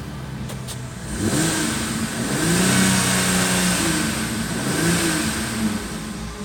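Holden Commodore 3.6-litre V6 engine running, revved up from idle about a second in, eased off briefly and revved again, then dropping back toward idle near the end.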